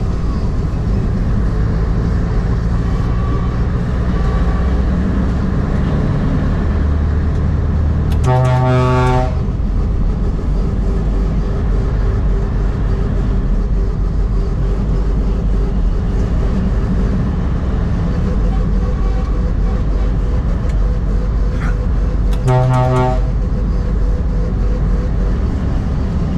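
A truck driving, engine and road noise running steadily, with two horn blasts of about a second each: one about a third of the way in and one near the end.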